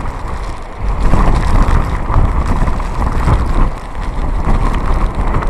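Typhoon-force wind buffeting a phone's microphone: a loud, rumbling rush that surges in gusts, strongest from about a second in, easing briefly near the middle.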